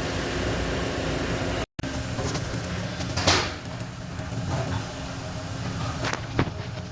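Steady workshop background noise with a low hum, broken by a few sharp knocks, the loudest about halfway through and two close together near the end.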